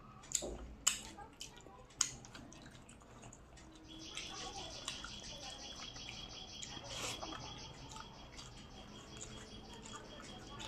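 Mouth and eating sounds: sharp wet clicks and smacks of chewing. About four seconds in, a steady high chirping with many quick pulses a second starts up in the background and keeps going.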